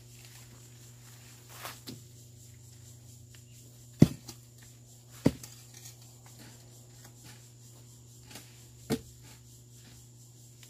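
Hoe chopping into weedy ground: a few sharp strikes, the loudest about four seconds in, another a second later and one more near the end, with fainter scrapes between them over a steady low hum.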